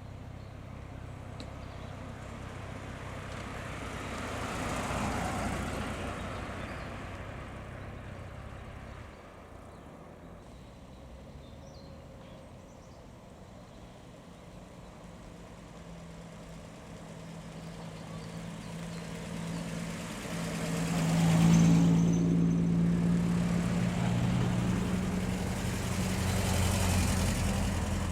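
Classic cars driving past one after another, engines running with tyre noise. One passes about five seconds in. A louder one with a deep, steady engine note passes about two-thirds of the way through, and another follows near the end.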